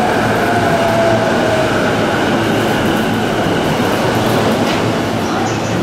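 Commuter electric train rolling along a station platform: steady wheel-on-rail noise with a motor whine that falls in pitch in the first second or so, and faint high wheel squeals near the end.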